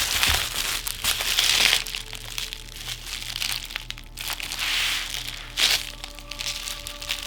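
Plastic packaging crinkling and rustling in several bursts while graded card slabs are unwrapped and handled, with small clicks and knocks and a sharper click just after halfway.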